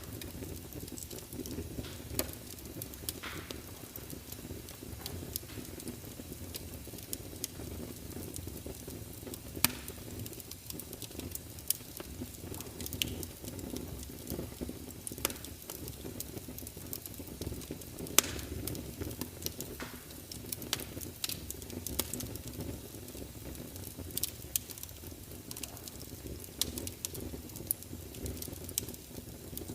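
Wood fire burning in a fireplace: a steady low rush with frequent sharp crackles and pops, a few of them louder than the rest.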